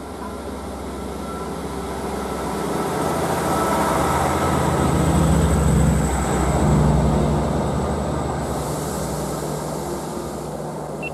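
Class 158 diesel multiple unit passing beneath a bridge: its diesel engine drone and wheel rumble grow louder, peak as it goes underneath about halfway through, then fade as it runs away. A steady high hiss joins in about two-thirds of the way through.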